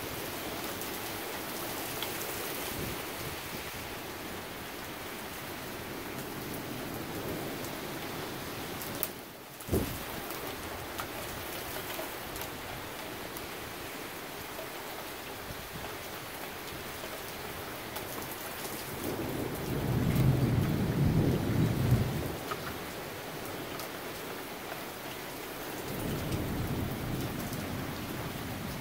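Steady rain falling during a thunderstorm, with thunder rumbling twice: a loud low roll about two-thirds of the way through and a weaker one near the end. A single sharp crack comes about a third of the way in.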